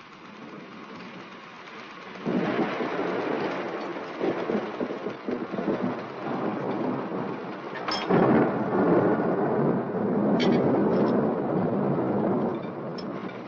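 Thunderstorm with rain: a loud thunderclap rolls in about two seconds in, and a second, louder one breaks about eight seconds in and rumbles on until near the end.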